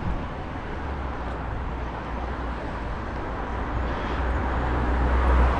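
Outdoor street noise with a steady low rumble of road traffic, growing louder toward the end.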